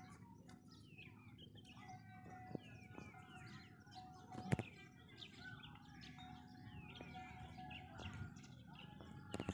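Many small birds chirping and twittering, with a faint steady tone and a low rumble underneath. A single sharp knock about four and a half seconds in.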